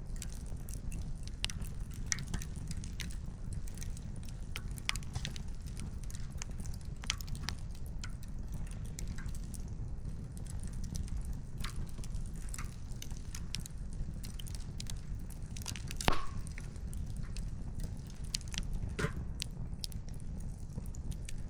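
Wood campfire crackling, with irregular sharp pops of burning firewood over a steady low rumble; the loudest pop comes about three-quarters of the way through, with another shortly after.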